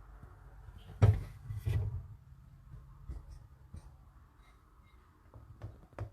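Two dull knocks, about a second in and again just after, then a few small scattered clicks of things being handled, over a low hum.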